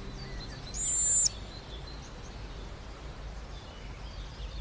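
A single thin, very high-pitched bird call, held steady for about half a second just under a second in, over faint outdoor background noise.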